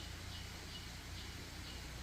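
Quiet outdoor evening ambience: a faint, short, high chirp repeating evenly about two and a half times a second, over a low steady rumble.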